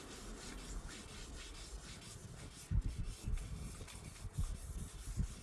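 Car paintwork being wet sanded by hand with 2000-grit sandpaper, the paper rubbing over the wet panel to take out fine scratches, with a few dull low thumps from about halfway through.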